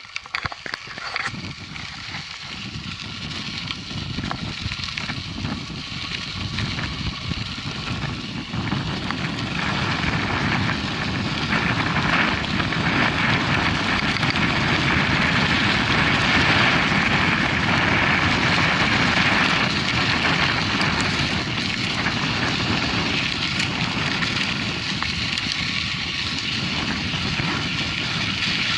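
Riding noise from a mountain bike: wind rushing over the microphone and tyres rolling and crackling over a dirt track, a steady noise that grows louder over the first dozen seconds and then holds.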